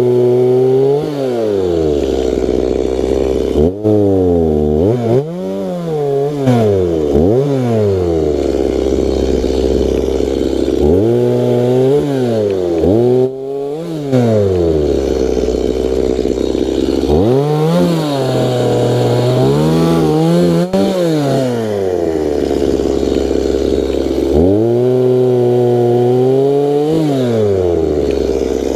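Wood chipper's engine running at a steady speed, its pitch dropping sharply and recovering again and again as it bogs under load while wood is fed through, with several quick dips close together a few seconds in.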